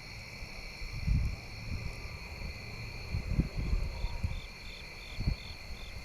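Night insect chorus: crickets and other insects trilling steadily, with a separate insect chirping in a quick even series of about three calls a second over the last two seconds. Irregular low rumbles come and go underneath.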